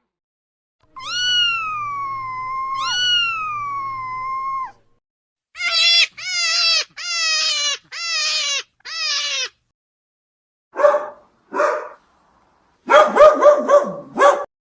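A run of domestic animal calls, cats meowing and a dog barking. There are two long meows, then five short ones, then two barks about a second apart and a quick burst of barking near the end.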